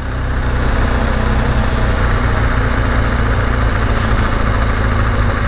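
BMW GS Adventure motorcycle engine running steadily, low and even, under a constant rushing noise on the helmet-mounted microphone.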